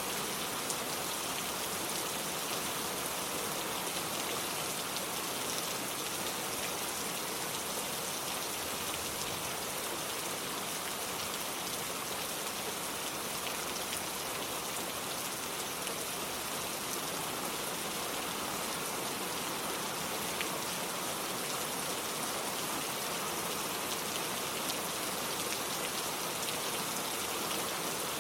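Steady rain falling, with fine drop ticks in an even hiss.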